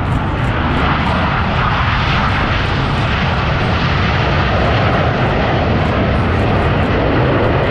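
Blue Angels F/A-18 jets in flight: a loud, steady jet engine roar.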